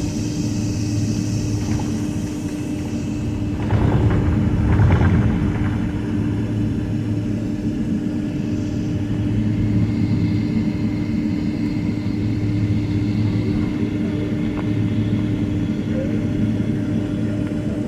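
Steady cabin hum of a Boeing 767 airliner on the ground after landing, with a louder rumble for about two seconds around four seconds in.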